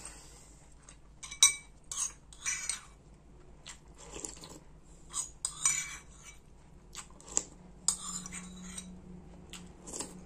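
A spoon clinking and scraping against a bowl of soto ayam in irregular knocks as someone eats fast, with some crunching and chewing.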